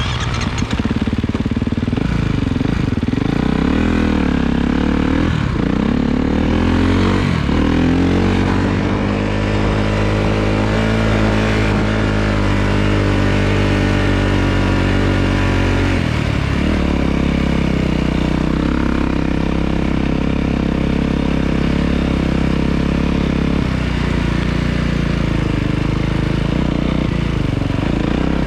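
Snowbike engine running under changing throttle, its pitch holding steady for stretches and dipping and rising again several times.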